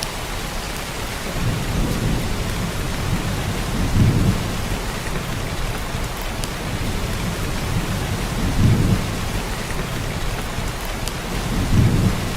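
Heavy downpour of rain, a steady dense hiss, with deep low rumbles swelling and fading several times, strongest about four seconds in, about nine seconds in and near the end.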